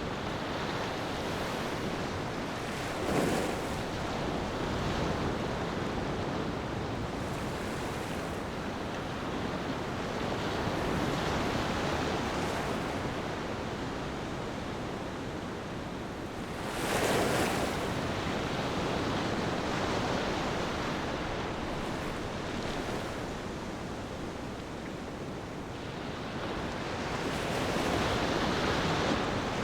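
Ocean surf washing onto a beach: a steady rush of waves that swells as waves break, most loudly about halfway through and again near the end.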